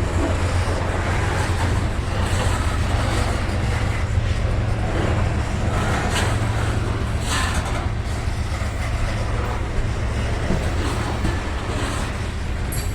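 Freight train cars rolling past over the rails, a steady low drone under a broad rumble, with a couple of short clanks about six and seven seconds in.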